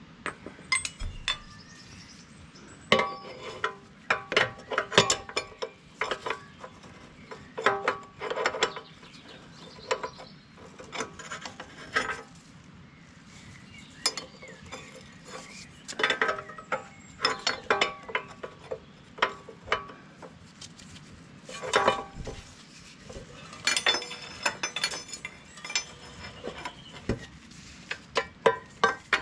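Steel spanners clinking and rattling against metal hydraulic hose fittings in irregular bursts, some clinks ringing briefly.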